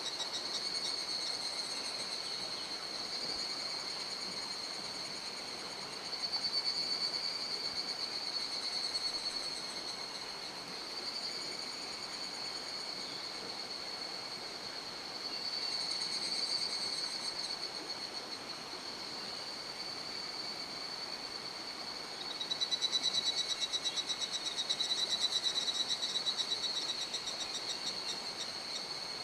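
High, rapidly pulsing animal calls that swell and fade in waves, over a steady rushing hiss of stream water.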